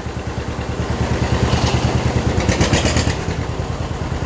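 John Deere 620 tractor's two-cylinder engine chugging under way with an even, rapid popping beat. There is some clattering about two and a half seconds in.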